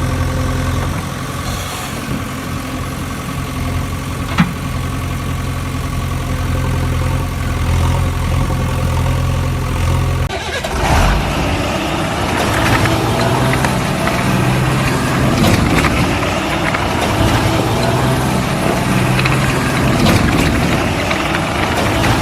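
Vehicle engine running steadily with a low, even hum. About halfway through it changes to a busier engine sound that rises and falls in pitch, as if working under load.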